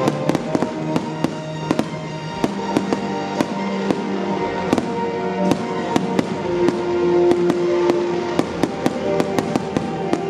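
Aerial firework shells bursting in many sharp, irregular bangs and crackles, over loud music with long held notes.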